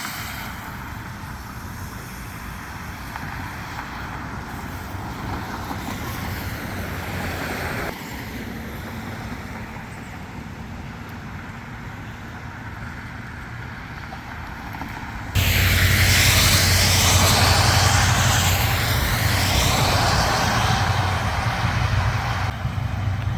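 Outdoor street noise with road traffic passing, changing abruptly twice as the clips cut; about 15 seconds in it becomes a much louder, steady rushing noise.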